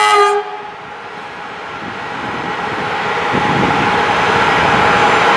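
A train at a station: a brief loud pitched tone at the very start, then the rumble and rail noise of the train growing steadily louder as it comes closer.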